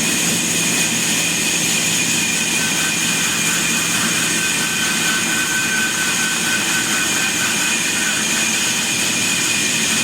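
Sawmill machinery running steadily: an even mechanical whir with a constant high whine over it and no change in load.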